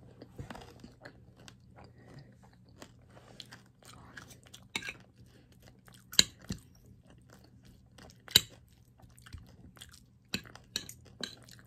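Chewing a mouthful of rice and vegetables with soft wet mouth clicks, over a low steady hum. Sharp clinks of a metal fork and spoon against the plate come through now and then, the loudest about six and eight seconds in.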